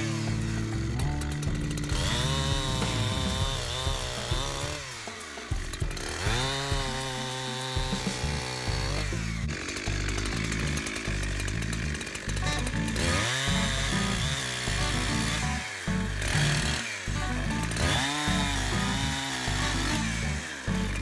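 Chainsaw revving up and dropping back several times as it cuts through logs, with background music playing under it.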